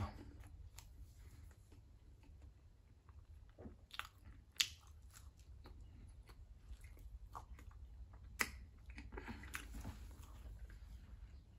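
Close-miked chewing of a mouthful of soft garlic bread: quiet, wet mouth sounds with a few sharp clicks, the sharpest about four and a half and eight and a half seconds in, over a low steady hum.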